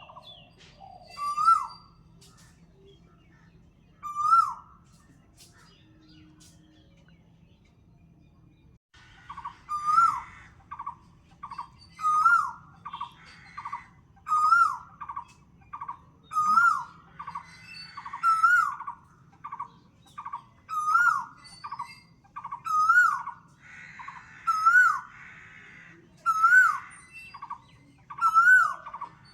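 Birdsong: a whistled call that rises and then drops, repeated every two seconds or so. About nine seconds in, a quick run of short, even notes joins it, about four a second.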